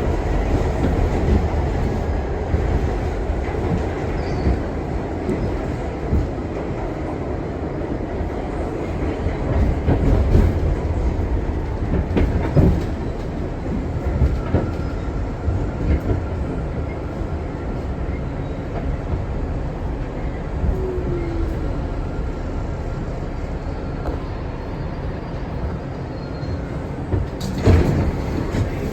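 R62 New York City subway train running along the track: a steady low rumble with wheel clicks over the rail joints and a few sharper knocks, the loudest near the end.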